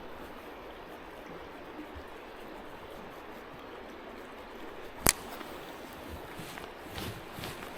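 Steady rushing of a stream, with one sharp click about five seconds in and a few faint ticks after it.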